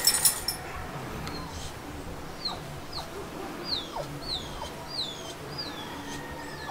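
A bird calling: a series of short, high notes, each sliding downward, repeated about twice a second from a little over two seconds in. A few sharp clicks come at the very start.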